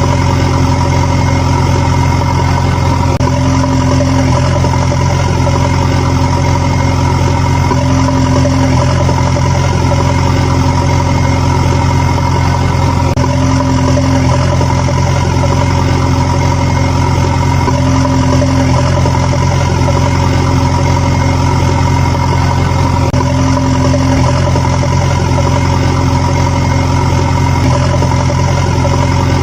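A heavy engine idling steadily, with a slight swell that comes back every four to five seconds, like a looped sound effect.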